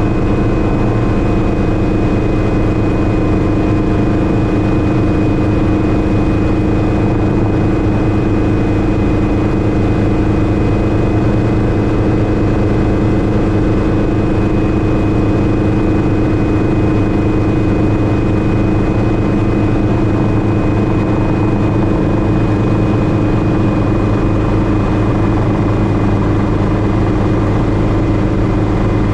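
Schweizer 300C (Hughes 269C) light helicopter running steadily in flight: its four-cylinder Lycoming piston engine and rotors, with a thin steady high-pitched whine over them.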